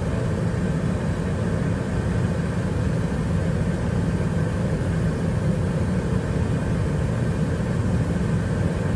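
Airliner cabin noise inside an Airbus A320 on the ground before takeoff: a steady low rumble of the engines and cabin airflow, with no change in level.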